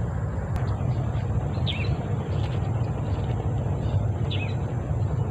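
A bird giving the same short chirped call about every two and a half seconds, over a steady low rumble.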